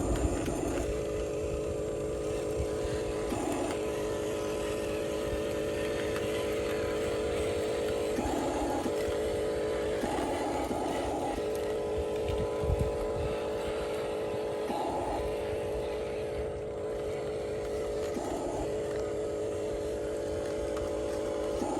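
Motor of a radio-controlled construction model running steadily with a droning hum, turning rougher for a moment every few seconds.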